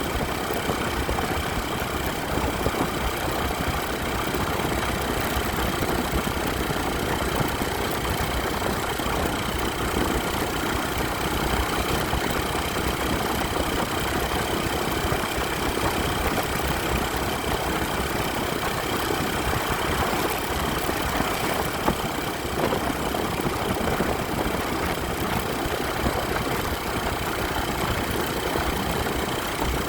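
Motorcycle engine running steadily for the whole stretch, under an even rush of noise with no revving up or down.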